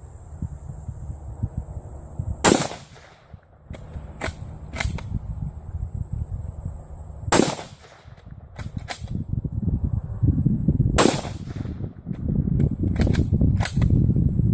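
Three .308 rifle shots from a Ruger Gunsite Scout bolt-action rifle, spaced about four to five seconds apart, with lighter clicks between the shots.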